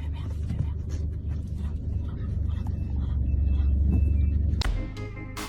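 Steady low rumble that stops abruptly near the end, where music with sharp struck notes begins.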